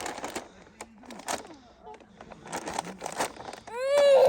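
Rustling and light knocking of things being handled, then near the end a young child lets out one loud squeal that rises and falls in pitch.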